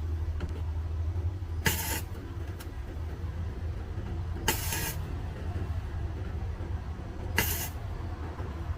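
CO2 MIG welder laying short tack welds on a car door's cracked inner sheet metal: three brief bursts, each about a third of a second, roughly three seconds apart, over a steady low hum.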